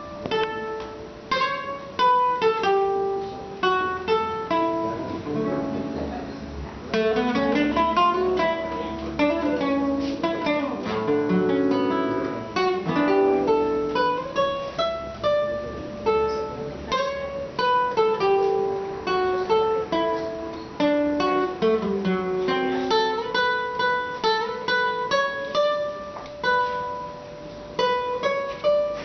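Instrumental music from a trio of plucked string instruments, guitar-like, picking a quick running melody over strummed and plucked chords.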